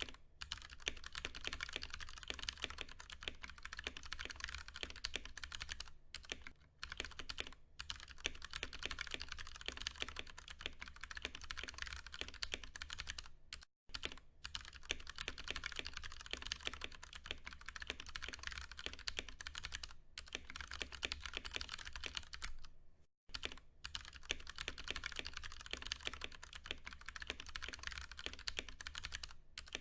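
Continuous fast typing on a Ducky One 2 Mini mechanical keyboard with Cherry MX Brown switches: a dense run of key clacks, broken by brief pauses a few times.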